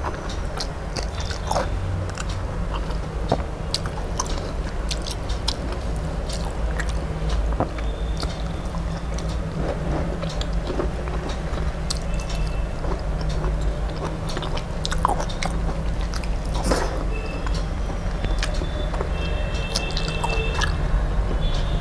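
Close-miked eating sounds: chewing and mouth smacks, with soft wet squishing as rice and gravy are mixed by hand on a steel plate. A steady low hum runs underneath.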